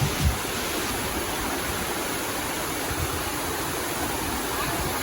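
Waterfall water rushing in a steady, even roar, with a brief low buffet of wind on the microphone at the very start.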